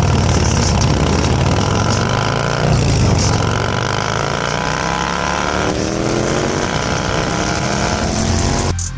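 Motorcycle engine accelerating, its pitch climbing steadily and dropping back at two gear changes, about three and six seconds in. It cuts off sharply near the end.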